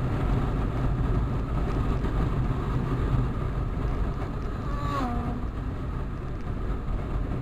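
Motorcycle engine and wind noise heard from the moving bike at speed, a steady rumble and rush. A short falling tone comes through about five seconds in.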